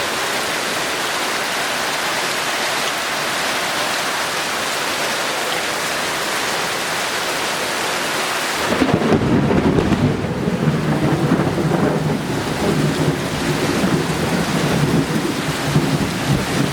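Heavy rain falling as a steady hiss. About halfway through, a long rumble of thunder sets in suddenly and rolls on to the end under the rain.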